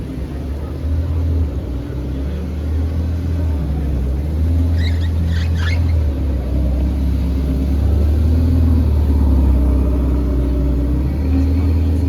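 A car engine running with a steady low rumble that grows slightly louder midway, with a few brief high chirps about five seconds in.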